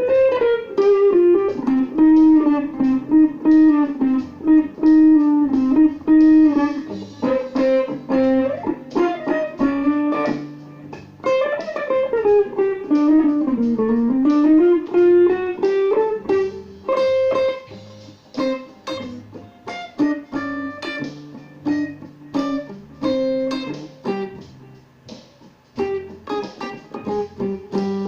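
Electric guitar played through a Line 6 POD HD300 multi-effects unit set to a chorus sound. It improvises single-note melodic lines with some sliding notes, then shorter, choppier phrases in the second half.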